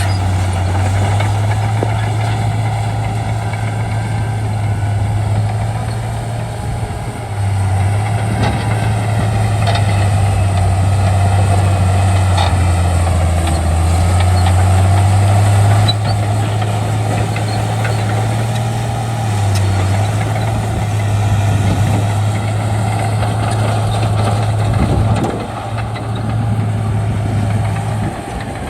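Bulldozer's diesel engine working under load. Its low drone shifts in pitch several times as the load changes.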